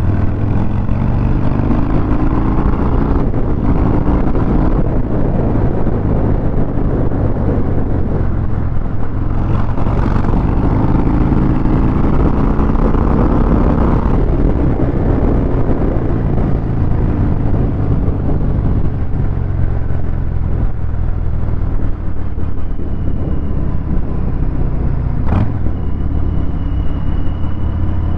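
Harley-Davidson Fat Bob 114's Milwaukee-Eight V-twin running through a Vance & Hines 2-into-1 exhaust while riding in traffic, with a deep steady rumble that climbs in pitch as the bike accelerates, once in the middle and again near the end. A single sharp click is heard near the end.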